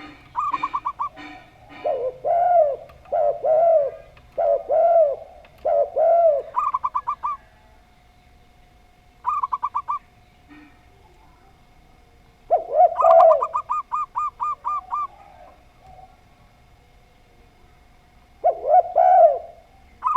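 Zebra dove and spotted dove cooing in turn. Fast runs of short clipped notes alternate with lower, arched coos, in bouts separated by short pauses.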